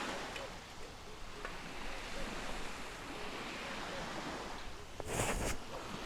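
Ocean waves washing on a shore with wind, a steady rush with a brief louder surge about five seconds in.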